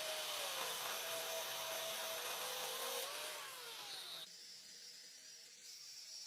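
A power tool running in a workshop: a steady hiss with a whirring tone that wavers slowly up and down in pitch. The sound drops away sharply about four seconds in, leaving a fainter hum.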